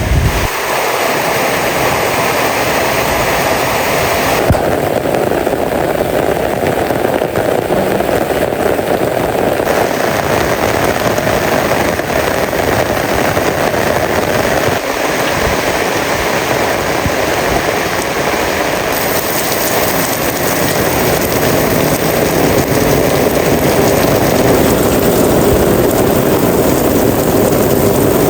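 Heavy rain pouring steadily: a dense, even hiss of rainfall that changes character abruptly a few times.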